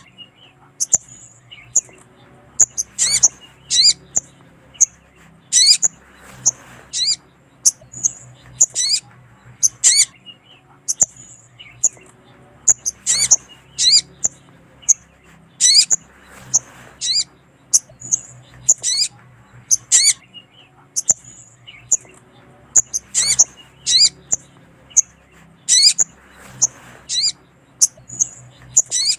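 Sogon (sunbird) calling: sharp, high chirps, each sweeping downward, repeated in quick clusters every second or so, over a faint steady low hum.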